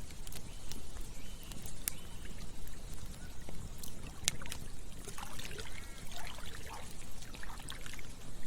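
Campfire crackling with scattered sharp pops over a steady rush of flowing water. A flurry of short animal calls comes in the second half.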